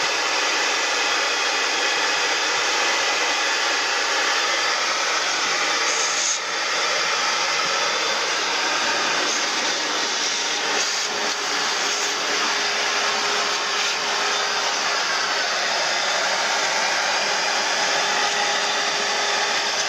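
Loud, steady rushing noise of equipment running during air-conditioner cleaning, with a brief dip about six seconds in.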